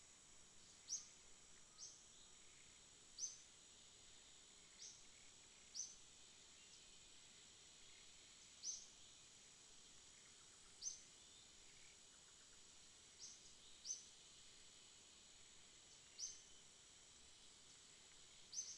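Night insect chorus: a steady, faint, high-pitched trill, with about a dozen short, sharp, high chirps at irregular intervals of one to three seconds.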